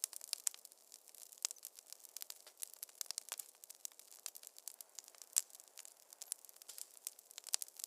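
Wood fire crackling in a fireplace: an irregular run of sharp pops and snaps, several a second, with a louder pop about five and a half seconds in.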